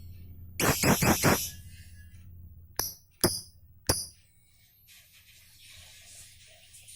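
Pet lovebird calling: a loud, harsh, rattling burst of chatter about a second in, then three short sharp chirps, then softer hissing chatter near the end.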